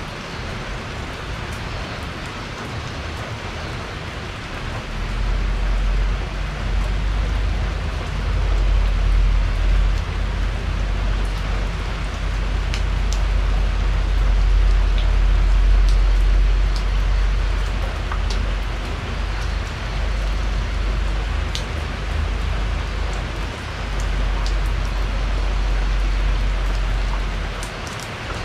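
Steady rain falling on a porch, with scattered sharp drips close by. A deep low rumble comes in underneath about five seconds in and fades briefly near the end.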